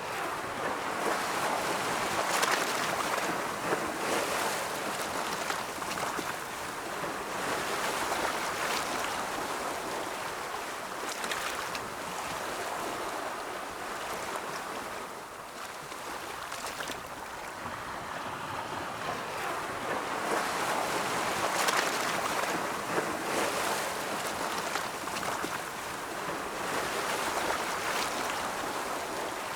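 Ocean waves breaking and washing on a shore, a continuous rushing surf that swells and eases every few seconds, with brief brighter splashes.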